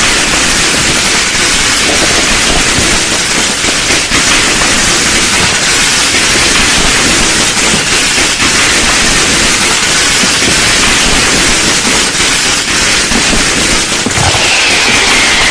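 Fireworks crackling in a dense, unbroken stream of rapid pops and crackles. Near the end a whistle falls in pitch.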